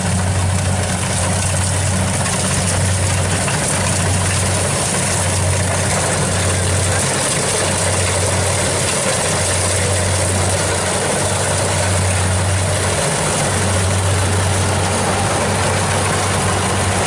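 Kubota DC70 combine harvester running steadily at work: a loud, even low hum from the engine over a broad rushing noise from the machinery, the hum dipping briefly a few times.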